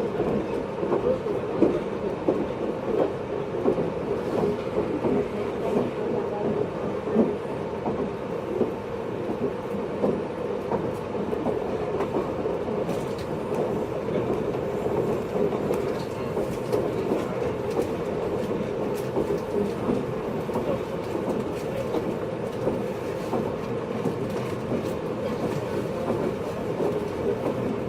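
Running sound heard inside a JR East 583 series sleeper-type train car (MoHaNe 582) while it travels at speed: a steady rumble of wheels on rail, with scattered clicks through it.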